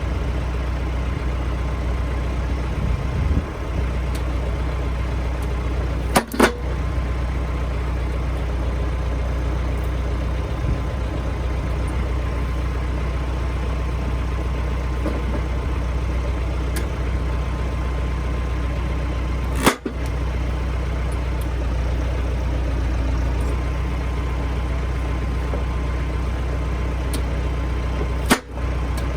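Renault tractor's diesel engine running steadily at low revs, supplying hydraulic power to a tractor-mounted log splitter. Three short sharp clicks stand out: about six seconds in, about twenty seconds in and near the end.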